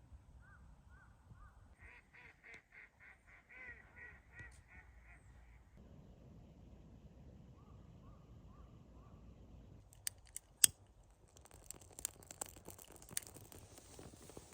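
Waterfowl honking across a lake: a run of calls at about three a second for a few seconds, with fainter calls before and after. About ten seconds in come a few sharp clicks, the loudest sounds here, then a stretch of hiss with scattered small clicks.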